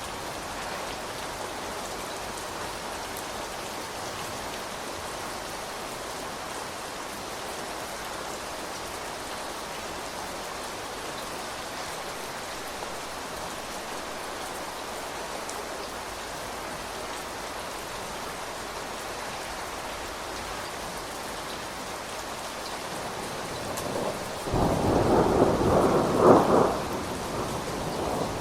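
Steady rain falling. Near the end a loud, low rumble of thunder swells up, peaks and dies away over about four seconds.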